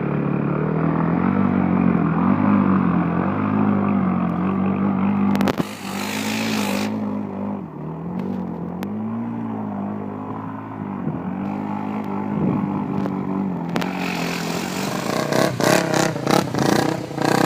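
Enduro motorcycle engine running, its revs rising and falling repeatedly, with a run of sharp clattering knocks near the end.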